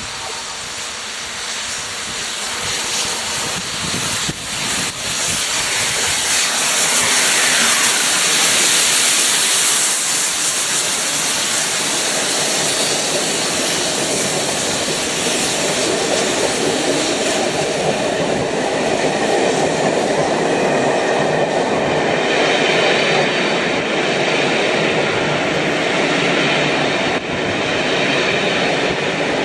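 Peppercorn A1 three-cylinder Pacific steam locomotive 60163 Tornado passing at speed. Its rush builds to a loud peak about a quarter of the way in, then the coaches behind it roll by steadily.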